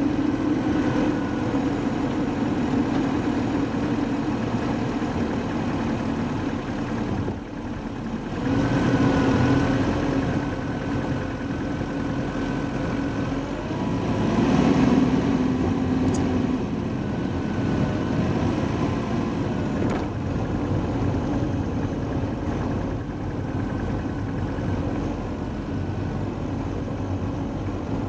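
Car engine and road noise from a moving car, running steadily. It dips briefly about seven seconds in, then grows louder with the engine pitch rising under acceleration around nine and again around fifteen seconds.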